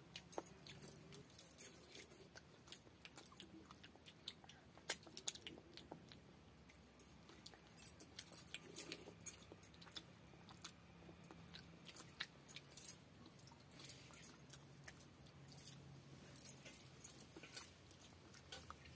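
Faint close-up eating sounds: chewing and lip smacks with many scattered short clicks, as two people eat rice and fish curry with their fingers.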